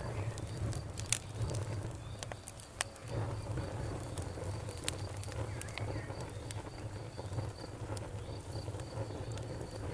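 Campfire crackling, with sharp pops at irregular intervals over a low, steady rumble of burning wood. Behind it, an insect chirps in a steady, evenly repeated high pulse.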